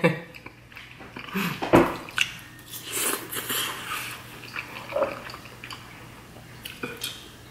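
Close-miked chewing of Shin Ramen instant noodles: irregular wet mouth clicks and smacks, with one sharp knock just under two seconds in.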